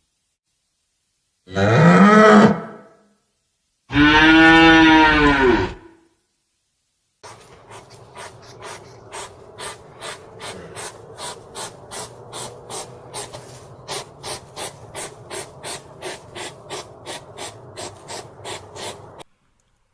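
A cow mooing twice, two arching calls, the second longer. Then a quieter rhythmic rasping pulse repeats two to three times a second, gradually speeding up, and stops abruptly near the end.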